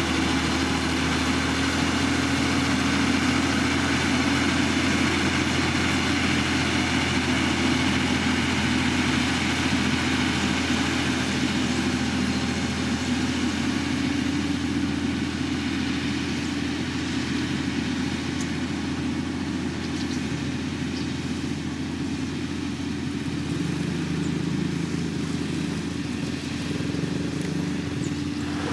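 Diesel engine of a heavy road-building machine running steadily at a construction site, with a second, lower engine note coming in about two-thirds of the way through.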